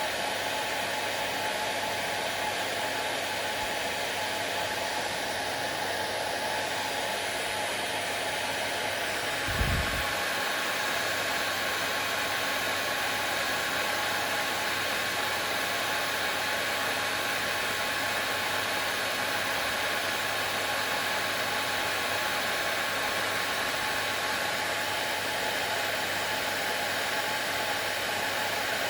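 Hand-held hair dryer running continuously, a steady even whoosh of blowing air with a constant motor hum. About ten seconds in there is one short low thump, and the hum's tone shifts slightly after it.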